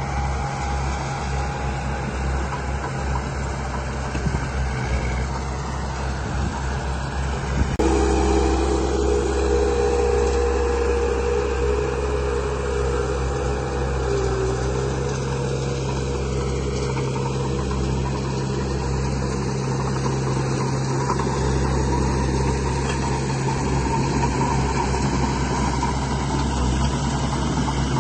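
Electric motors and gearboxes of radio-controlled model construction machines running steadily with a constant hum. About eight seconds in it gets suddenly louder as a second, higher motor whine joins.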